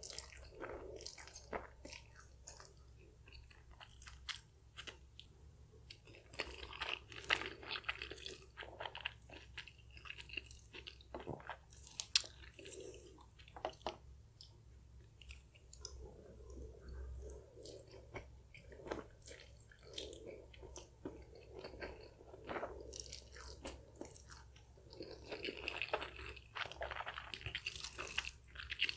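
Close-miked chewing and slurping of sticky, chewy black bean noodles, with wet mouth clicks and scattered sharp clicks.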